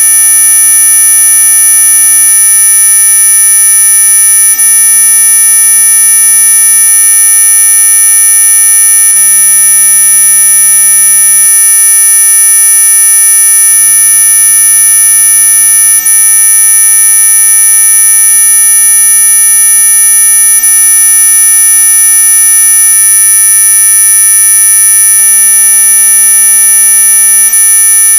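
Synthesized anti-mosquito repellent tone: a loud, steady electronic whine of several high-pitched tones layered together over a fainter lower hum, unchanging throughout.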